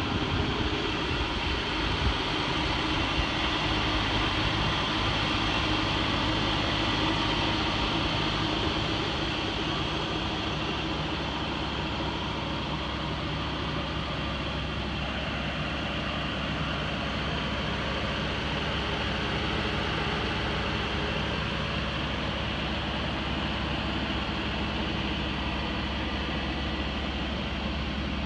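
The 1979 Chevrolet Malibu Classic's 305 V8 idling steadily.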